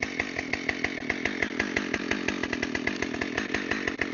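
Chainsaw running steadily, with an even rapid pulsing, cutting a fallen red oak log.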